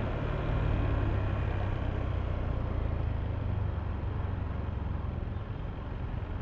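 Yamaha Aerox V3 scooter's 155 cc single-cylinder engine running steadily while riding, with road and traffic noise around it; it eases off slightly near the end.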